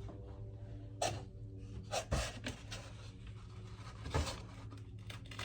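Packing material being handled and pulled from a new fridge freezer: scattered knocks and scraping rustles, with a steady low hum underneath.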